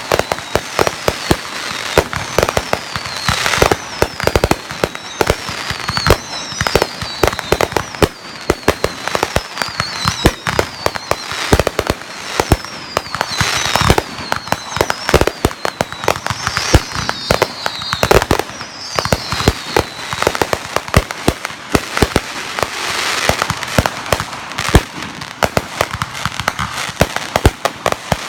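Fireworks going off in a dense, continuous barrage of sharp bangs and crackles, with short falling whistles repeating every second or two for most of the stretch.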